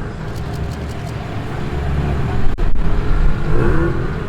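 A car engine rumbling low as a car drives slowly past, growing louder about two seconds in.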